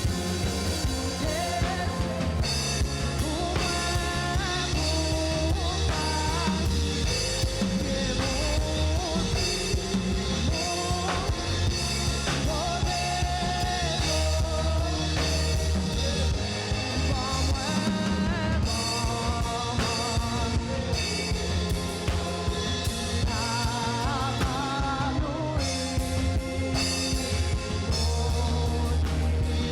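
Church worship band playing a song with drum kit and bass, a voice singing the melody over it.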